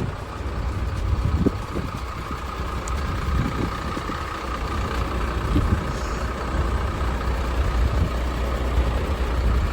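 Hyundai Mega Truck 5-ton dump truck's diesel engine idling steadily.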